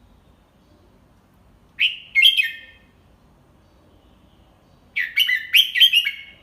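Red-whiskered bulbul singing: a short phrase of quick, clear whistled notes about two seconds in, then a longer phrase of four or five notes near the end. It is a model 'double-three' song sung slowly and clearly, for young bulbuls to learn and copy.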